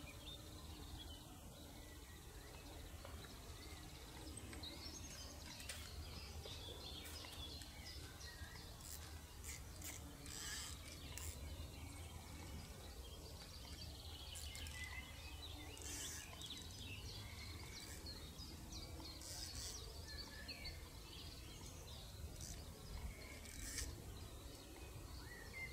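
Faint outdoor ambience: small birds chirping intermittently over a low, steady rumble.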